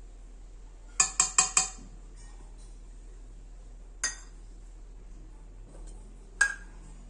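Kitchen utensil and dishes clinking: four quick ringing clinks about a second in, then single clinks near the middle and near the end.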